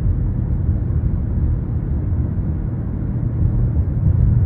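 Cabin noise of a 2023 Nissan Rogue driving along a road: a steady low rumble of tyres on the road and the running drivetrain, heard from inside the car.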